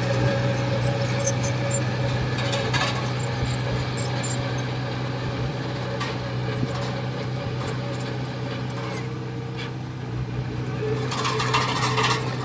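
Heavy diesel engine of construction machinery running steadily at a constant pitch, with scattered clanks and knocks, and a short burst of rattling noise near the end.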